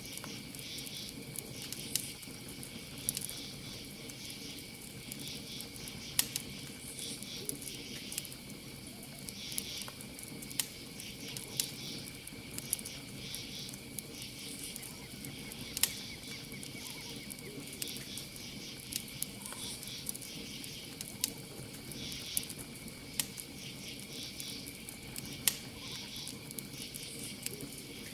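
Campfire crackling, with sharp pops at irregular intervals, over a steady high-pitched cricket trill and pulsing insect chirps.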